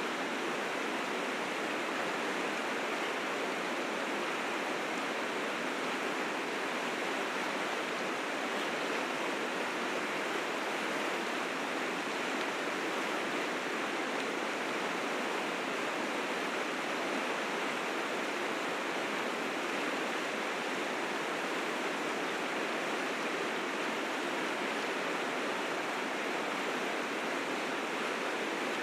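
River rapids rushing steadily, swollen with spring snowmelt: an even, unbroken roar of fast water with little deep rumble.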